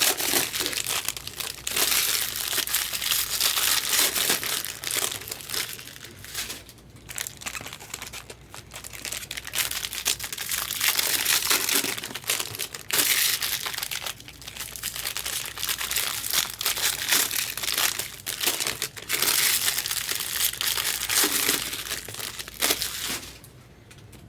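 Trading card pack wrappers crinkling and tearing as packs are opened by hand, in irregular bursts with short lulls; it stops shortly before the end.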